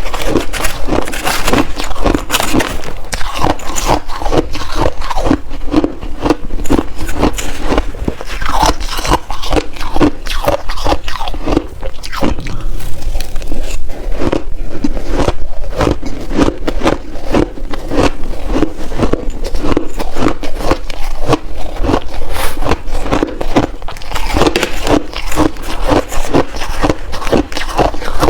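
Close-up crunching and chewing of blue shaved ice taken in big spoonful bites: a rapid, irregular run of loud crunches.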